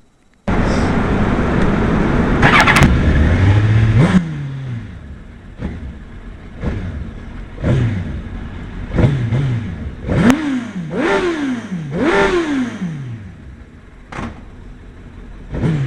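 Suzuki GSX-R1000 K1's inline four-cylinder engine starts about half a second in and runs loud for a few seconds. It settles back, then is revved in about ten quick throttle blips, each rising sharply in pitch and falling back to idle.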